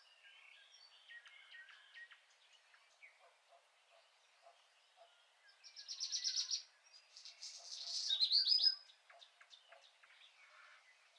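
Birdsong: scattered faint chirps from several birds, with two louder, fast trilled phrases about six and eight seconds in.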